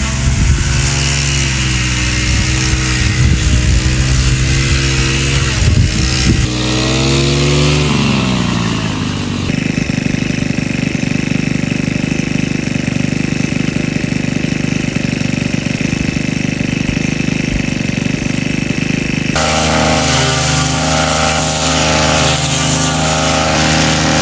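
An engine running steadily, its pitch climbing about seven seconds in as it revs up. The sound changes abruptly twice, at about a third and four-fifths of the way through.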